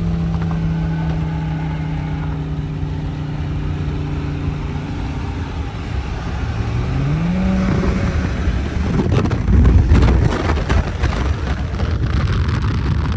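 Car engine running at a steady pitch, then revving up about seven seconds in, followed by loud hard acceleration that peaks about ten seconds in.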